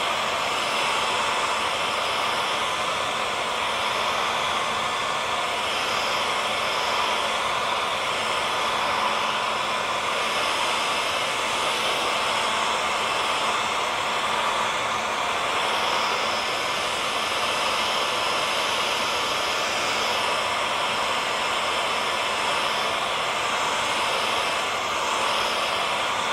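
Hair dryer running steadily: an even rush of blown air with a faint motor whine underneath, holding the same pitch and level throughout.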